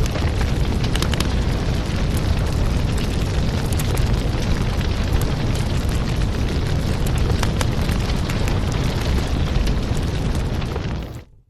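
Fireplace fire burning: a steady low rumble with scattered crackles and pops. Near the end it fades out to silence for a moment.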